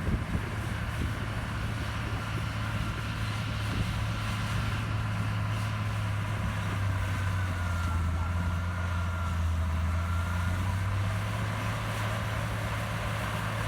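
Heavy diesel engine of earthmoving machinery running steadily, with a deeper engine note and a faint whine joining for a few seconds midway.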